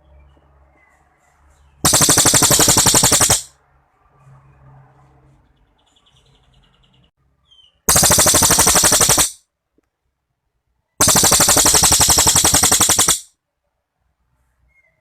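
A cililin songbird giving three long, very rapid rattling trill bursts, each about one and a half to two seconds long, starting about two, eight and eleven seconds in.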